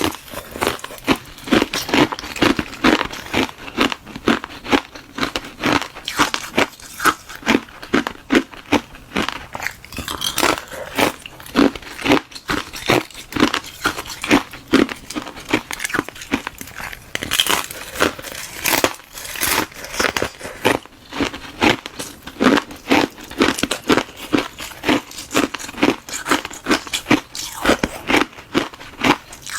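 Close-miked chewing of hard ice: a hollow frozen-water shell packed with frozen milk tea, crunched between the teeth in a steady run of sharp crunches, about two a second.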